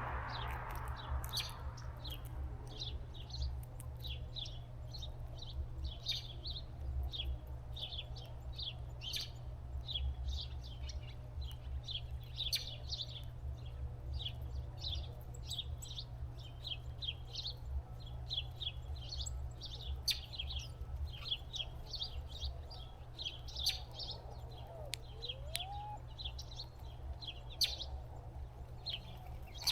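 Small birds chirping and twittering continuously, many short high calls a second, over a steady low hum.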